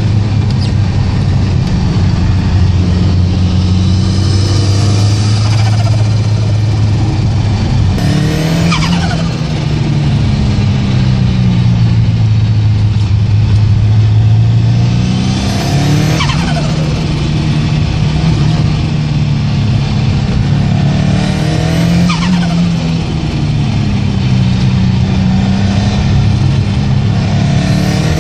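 Ford Sierra Cosworth 4x4's turbocharged four-cylinder engine running hard. About every six to seven seconds the throttle is lifted, and a falling turbo whistle and flutter follow as the engine note changes.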